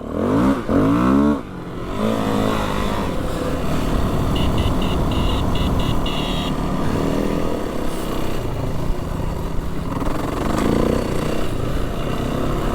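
Dirt-bike engine accelerating, its pitch rising through the first two seconds, then running steadily at riding speed. A short run of high, pulsing beeps comes through about halfway.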